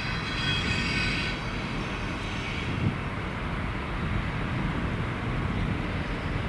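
Train running with a steady low rumble; a high-pitched squeal sounds for the first second and a half, and a single knock comes about three seconds in.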